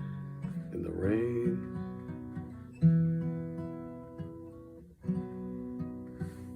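Acoustic guitar playing the song's closing chords: chords strummed about three seconds in and again about five seconds in, each left to ring and fade.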